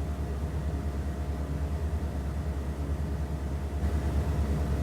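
A steady low hum with a faint, higher steady tone above it, and no speech.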